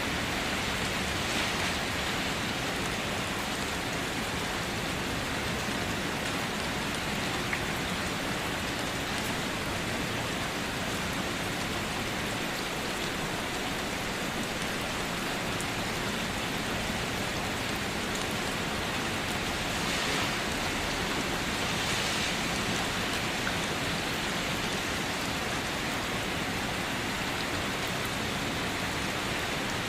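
Steady rain falling on a car, a dense even patter of drops with a few brief swells in intensity.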